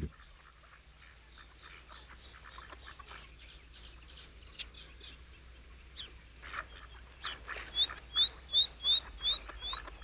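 Wetland birds calling: faint scattered chirps at first, then louder calls from about six seconds in, ending with a quick run of about six short, high rising notes.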